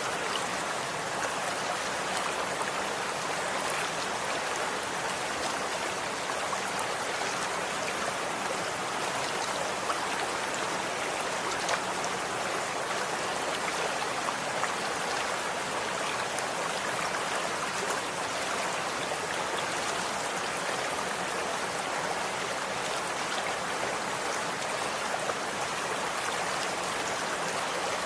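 Running water flowing steadily, a continuous even rush with small splashing flecks, like a stream.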